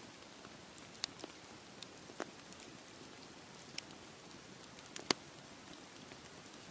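Wood campfire crackling, with scattered sharp pops (the loudest, a quick double pop, about five seconds in) over a faint steady hiss.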